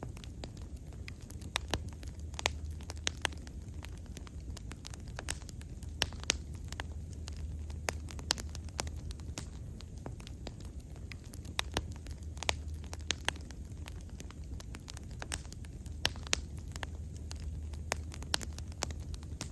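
Wood fire burning with sharp, irregular crackles and pops over a low, steady rumble of flames.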